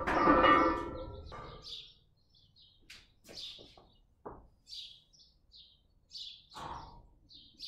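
Small birds chirping intermittently, with short high calls scattered every half second to second. A louder sound with held steady tones fills the first second, and a few faint clicks fall in the middle.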